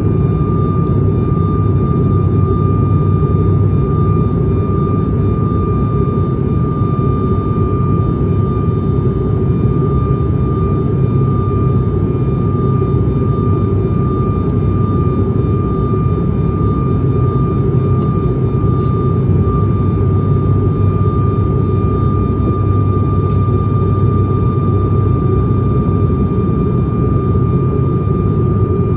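Cabin noise of an ATR 72-500 turboprop: a steady low drone from the engines and propellers, with a constant high whine over it.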